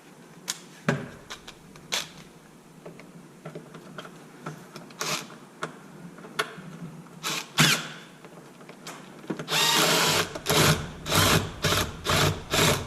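A few scattered clicks and taps, then, from about two-thirds of the way in, a cordless power driver run in short pulses, two or three a second, backing out a screw from an RC truck's chassis.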